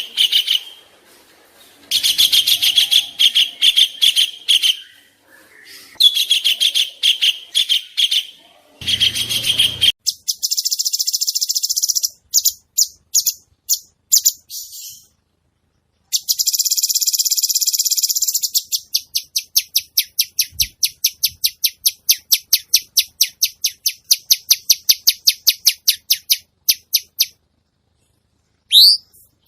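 Edited sequence of recorded songbird calls used as training song for competition birds. It begins with harsh, buzzy chattering phrases, then after a cut come high trills and clipped phrases, and a long run of rapid, sharp repeated notes at about four a second. A single rising note comes near the end.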